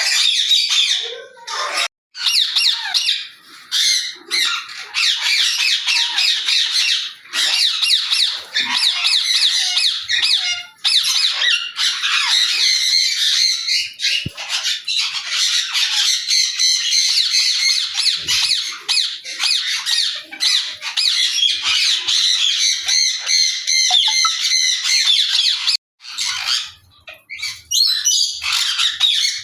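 Parrots squawking and chattering in a dense, shrill, near-continuous din, with a couple of brief pauses.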